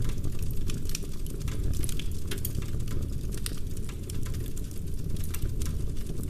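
Wood fire burning in a fireplace: logs crackling and popping in quick, irregular snaps over a steady low rumble.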